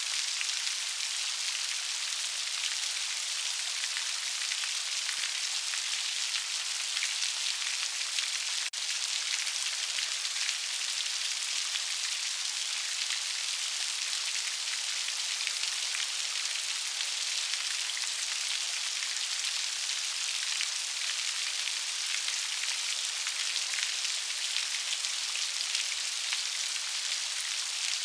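Steady rain falling, a dense, even patter of raindrops heard as a continuous high hiss without low rumble.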